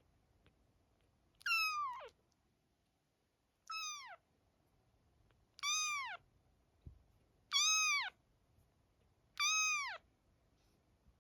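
Four-week-old kitten meowing five times, about two seconds apart. Each call is short and high-pitched and drops in pitch at the end. There is a soft thump between the third and fourth meows.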